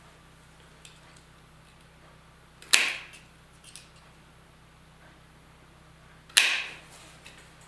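Metal snips cutting through thin metal strip twice, each cut a sharp snap, about three and a half seconds apart, with faint clicks of handling in between.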